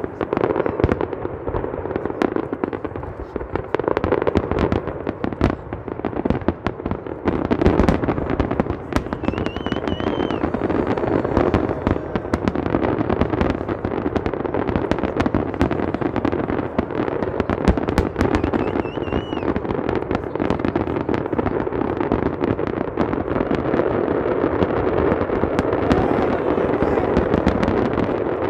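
Fireworks going off in a dense, continuous run of bangs and crackles. Two brief high whistles cut through, about a third and two thirds of the way in.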